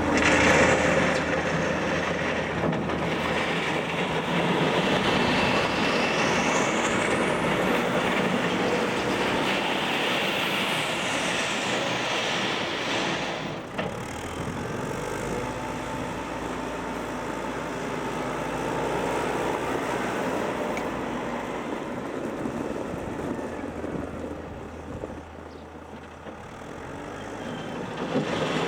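Volvo BM 6300 backhoe loader's diesel engine running under load while levelling soil, steady throughout, with a high whine sweeping up and down in the first half and a brief drop in level near the end.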